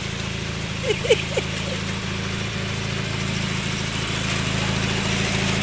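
Tractor engine running steadily, a low even hum that grows slowly louder. About a second in, three short squeaky calls sound over it.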